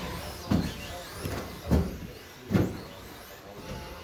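Electric RC stadium trucks with 13.5-turn brushless motors racing, their motors whining and rising and falling in pitch. Three heavy thuds stand out in the first three seconds.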